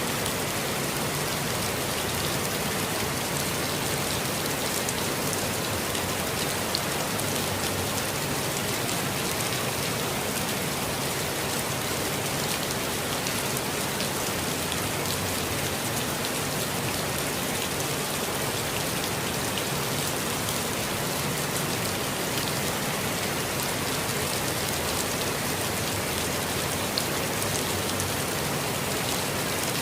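Steady rain falling on leaves and ground, a constant patter of drops with no let-up, with a couple of slightly louder single drops standing out.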